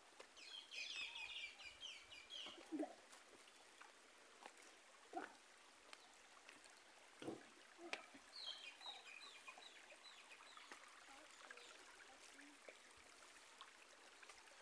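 Near silence with faint bird chirping, a quick run of high chirps about a second in and another around eight seconds, and a few soft thumps in between.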